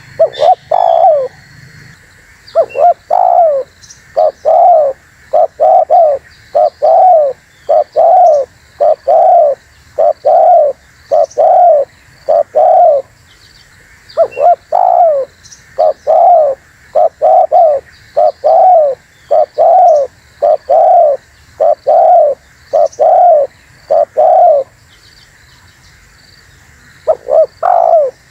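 Spotted dove (tekukur) cooing: loud coo notes repeated about once a second in long runs, broken by short pauses.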